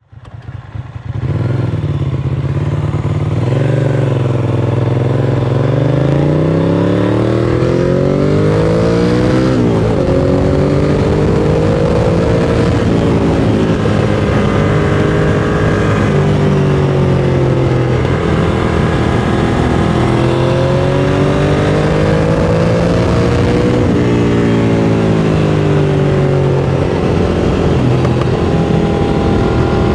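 Ducati Monster 695's air-cooled L-twin engine through a Mivv X-Cone aftermarket exhaust, heard onboard while riding: the engine pitch climbs under acceleration and drops at each gear change, over and over, with a sharp drop about nine and a half seconds in. The sound fades in over the first second.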